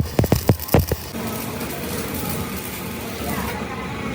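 About five sharp knocks in quick succession in the first second, then a vehicle engine running steadily.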